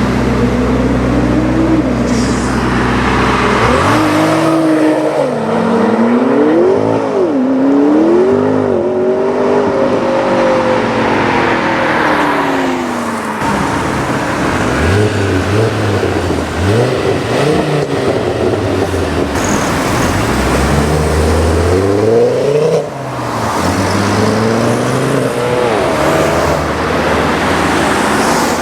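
Loud high-performance car engines rising and falling in pitch through repeated revs and accelerations. A low, steady idle comes first, for about the first three and a half seconds, before the revving starts.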